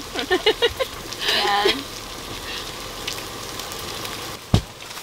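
Potatoes sizzling in a pan on a tabletop camp burner, with a few brief voices in the first two seconds and a single low thump near the end.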